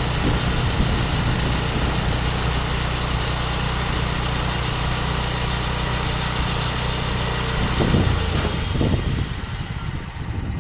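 Engine running steadily at idle, with a couple of swells about eight seconds in, then dropping away about nine seconds in to a quieter pulsing run.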